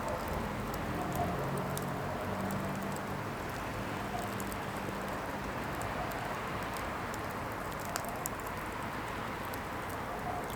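Firewood burning, a steady hiss with scattered small crackles and snaps.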